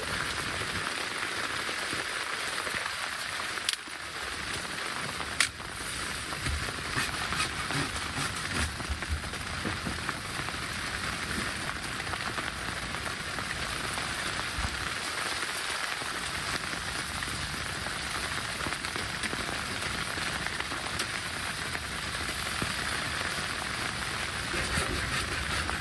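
Steady hiss of wind-driven snow falling, with two sharp knocks about four and five and a half seconds in.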